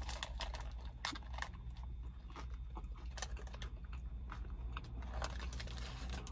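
A person biting into and chewing a crunchy deep-fried Jack in the Box taco close to the microphone: a string of crisp crackles and mouth clicks, thickest right after the bite, over a steady low hum.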